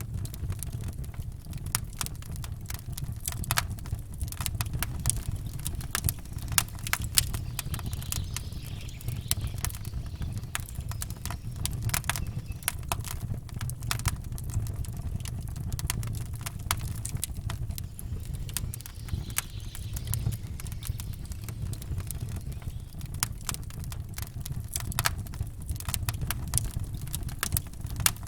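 Campfire crackling: a steady, irregular run of sharp pops and snaps over a low, steady rumble.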